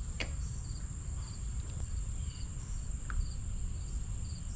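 Crickets chirping, short chirps repeating about every two-thirds of a second, over a steady high-pitched tone and a low background rumble.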